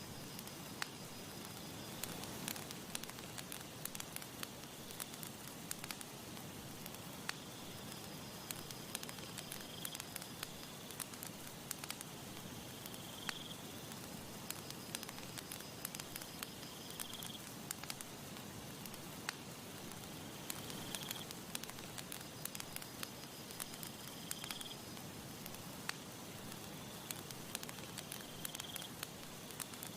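Campfire crackling and popping steadily, many small sharp snaps over a soft steady hiss. A faint, thin high-pitched call repeats about every four seconds in the background.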